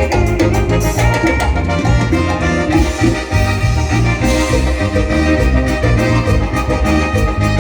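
Live dance band playing an instrumental passage of Latin dance music with a steady, driving beat.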